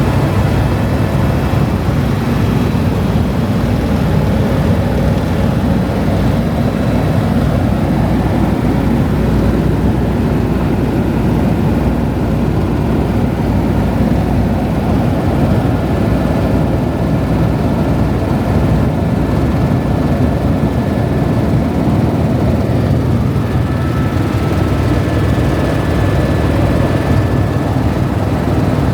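Helicopter engine and rotor running steadily, a loud, unbroken rumble heard from inside the cabin.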